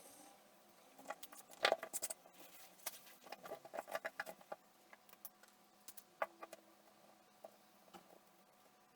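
Irregular small clicks, taps and scratches from small hard objects being handled, coming thick and fast for the first few seconds and then only now and then.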